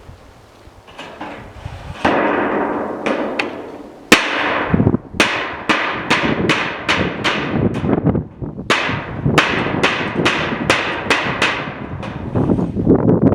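Hammer blows on steel roofing sheet, each strike ringing briefly. One single blow comes about four seconds in, then two quick runs of about ten strikes each at roughly three a second, after a few seconds of steady noise.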